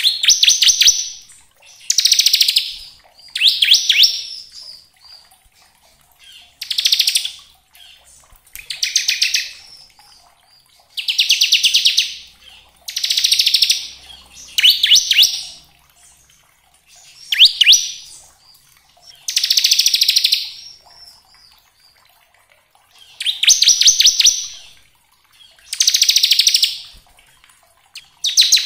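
Bar-winged prinia (ciblek) singing its rapid, rattling 'ngebren' trill, the phrases about a second long and repeated every two seconds or so.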